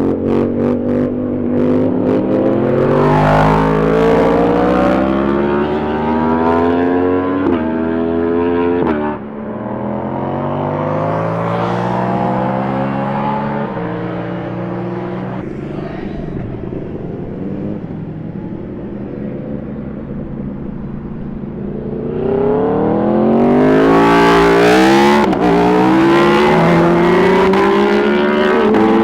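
Superbike engines accelerating hard through the gears, the engine note climbing and dropping back at each upshift, again and again, with a few sharp cracks near the start. The sound eases about a third of the way in, and another bike accelerates loudly near the end.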